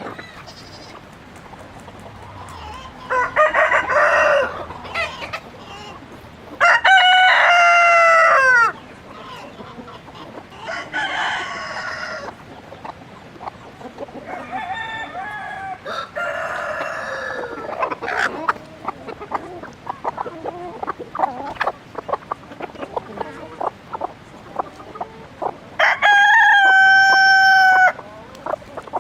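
Chickens: a rooster crowing several times in long, loud calls, the strongest about seven seconds in and near the end, with hens clucking between the crows.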